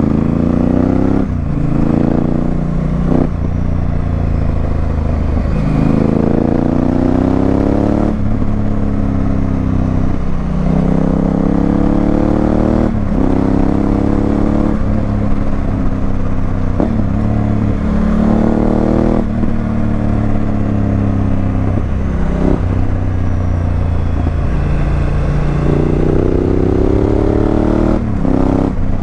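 Honda Africa Twin CRF1000L's parallel-twin engine through a Remus aftermarket exhaust, pulling hard and rising in pitch again and again as the rider accelerates and shifts gears, with short breaks and dips in pitch between the pulls.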